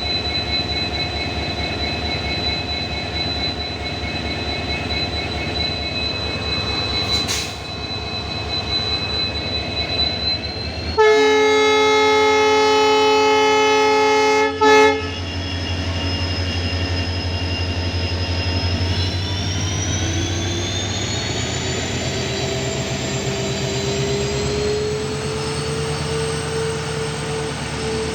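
Electric locomotive heard from on board: a steady electrical hum, a long horn blast about eleven seconds in followed by a short second toot, then the traction motors' humming rising steadily in pitch as the locomotive accelerates.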